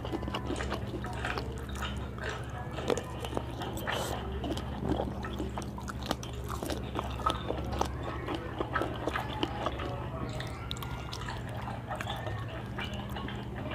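Close-miked wet chewing and biting of raw squid and octopus from an ASMR mukbang, many small irregular sticky mouth clicks and squelches, over a steady low hum.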